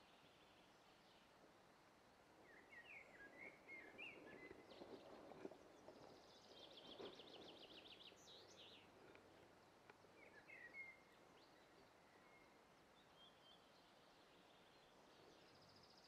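Near silence outdoors with faint songbirds: scattered short chirps and, midway, a brief rapid trill. Faint rustling sits under the bird calls in the middle stretch.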